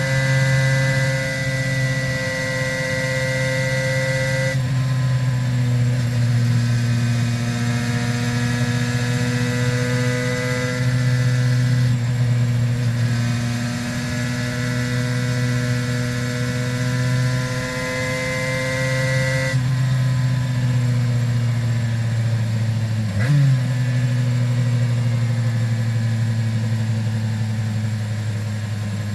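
Aprilia RS 250's two-stroke V-twin with Arrow exhausts running under load, its pitch climbing slowly and dropping sharply at gear changes about 4 seconds and 20 seconds in. A brief sharp blip about 23 seconds in, after which the engine runs lower and steady.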